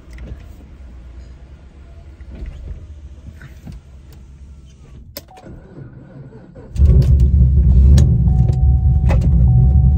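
Chevrolet Camaro engine starting about seven seconds in and settling straight into a loud, steady idle, heard from inside the cabin. Before it, only a few faint clicks and cabin sounds.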